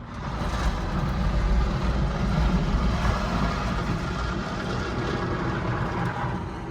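Automatic car wash's rotating brushes scrubbing over the car, heard from inside the cabin: a steady, low, rushing noise that starts suddenly and fades near the end.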